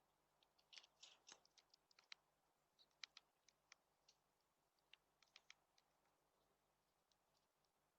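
Near silence with faint, irregular light clicks and ticks from small birds at a feeder, a cluster in the first two seconds and a few more scattered after.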